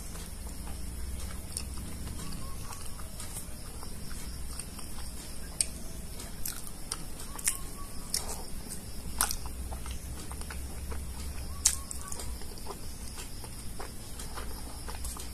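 Someone eating soft, syrup-soaked gulab jamun by hand: quiet wet chewing with a few sharp clicks, over a steady low hum.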